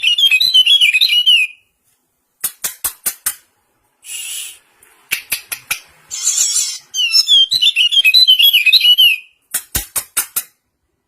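Caged white-eyes (kecial) singing: fast, high twittering warbles broken by quick runs of sharp ticking notes, with short pauses between phrases.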